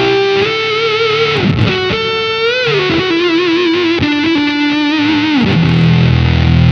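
Electric guitar played through an EarthQuaker Devices Data Corrupter PLL synth pedal set to its square-wave voice, a really thick, nasty fuzz. Single sustained notes wobble with vibrato and bends, then drop to a lower held note near the end.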